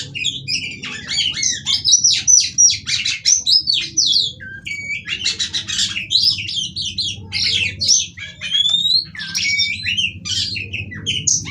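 Female Oriental magpie-robin singing a fast, varied song of clear whistles, rising and falling slurs and harsh scratchy rattles, with a short break a little before the middle. A steady low hum runs underneath.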